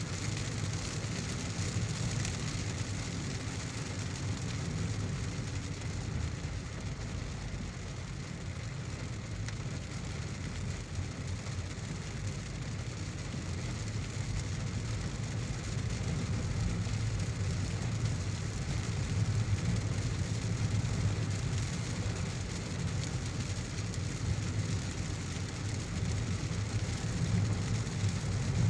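Heavy rain hissing steadily over the low drone of a car driving through it, the whole getting slightly louder in the second half.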